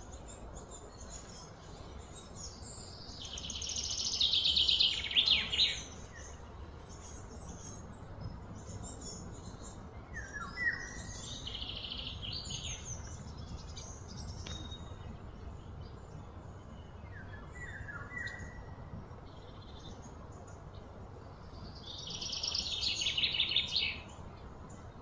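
Birds calling outdoors: two loud, fast high trills that build up over a few seconds and then stop, one about three seconds in and one near the end, with short falling chirps in between. A steady low background noise runs under them.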